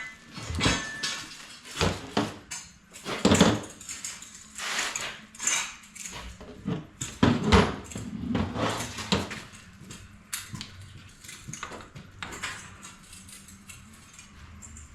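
Irregular metal clinks and knocks of EMT conduit, connectors and hand tools being handled and fitted. They come thickest in the first two-thirds and thin out over the last few seconds.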